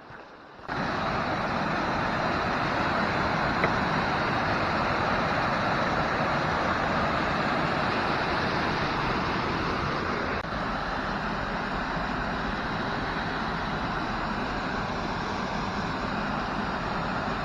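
Waterfall: a steady, loud rush of falling water that starts abruptly about a second in, breaks briefly just past the middle and cuts off suddenly near the end.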